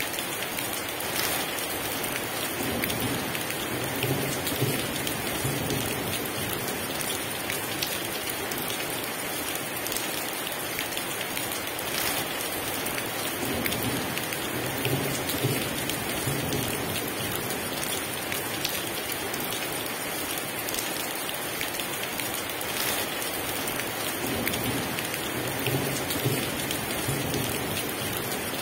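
Heavy rain pouring steadily. Low rolls of thunder rumble under it three times: a few seconds in, around the middle, and near the end.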